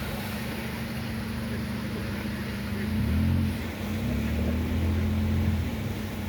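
A motor engine running steadily. Its pitch swells up and back down a couple of times about halfway through.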